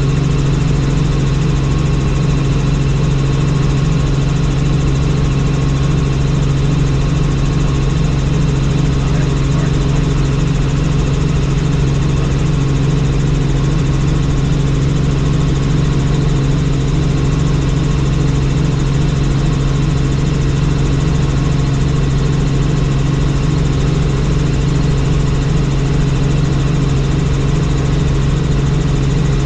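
Helicopter in flight: steady rotor and turbine engine noise, a loud unbroken drone with a strong low hum and its overtones.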